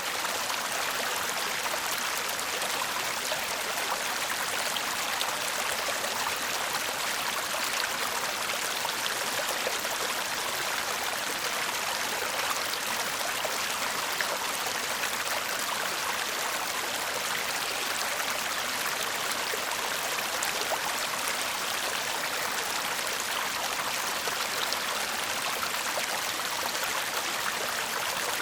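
Shallow brook babbling and murmuring steadily over stones, a continuous even rush of water with fine splashy flickers.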